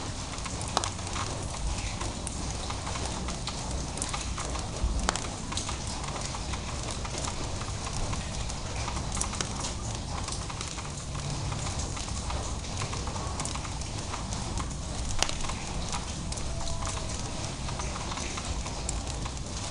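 Drizzle falling: a steady hiss of light rain with many scattered sharp ticks of drops striking nearby surfaces, a few of them louder.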